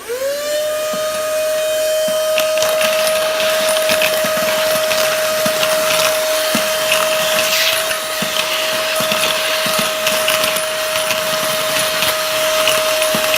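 Inflator converted into a vacuum cleaner switched on: its motor spins up within the first half second to a steady high whine. Scattered rattling clicks run through it as heavy NT$50 coins are sucked up into the nozzle.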